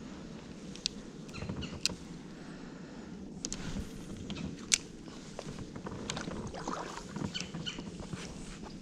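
Kayak being paddled along a shallow creek: water sloshing with the paddle strokes, with scattered sharp knocks and clicks, the loudest about two seconds and about five seconds in.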